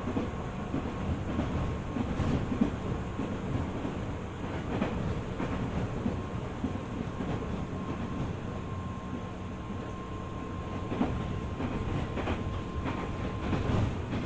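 Running noise heard inside a JR 205 series 600 subseries electric train under way: a steady rumble with wheels clicking over rail joints and a faint steady whine.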